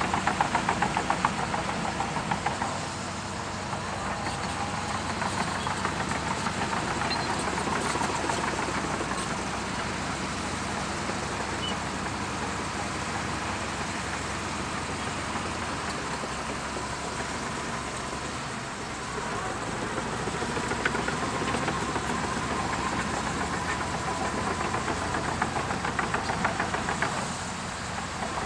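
Shantui DH17C2 bulldozer's diesel engine running as the machine works, with a fast even pulse and a faint steady whine; it grows louder and eases off a few times.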